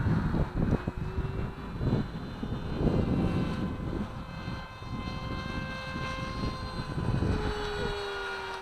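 Nitro glow engine of a Kadet LT40 RC model plane running steadily in flight, its pitch drifting slightly up and down. Gusts of wind buffet the microphone throughout.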